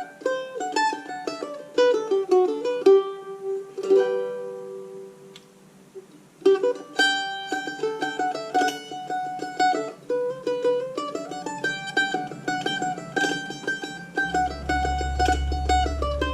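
Red Diamond mandolin picked in a quick, lively tune of fast single-note runs. About four seconds in the runs stop and a few notes are left ringing and fading, then the tune resumes. A low steady tone comes in near the end.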